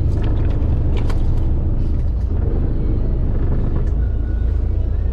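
Steady low rumble of a fishing boat's engine running, with scattered light clicks and knocks.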